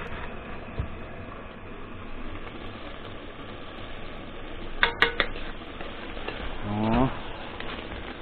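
Buckwheat, potatoes and carrots sizzling steadily in fat in a metal pot while a wooden spatula stirs them, the buckwheat soaking up the fat. There are a few sharp knocks of the spatula against the pot about five seconds in, and a brief rising tone near the end.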